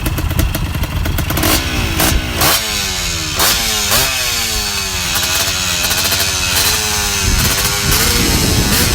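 Motocross bike engine accelerating hard through the gears. The pitch climbs and drops sharply at each shift, about four times in the first four seconds, then holds and wavers with the throttle.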